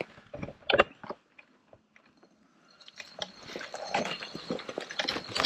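Crunching and crackling of an electric unicycle's tyre rolling over leaf litter, twigs and mud on a forest trail: a few sharp crackles at first, a short lull, then denser crunching from about three seconds in.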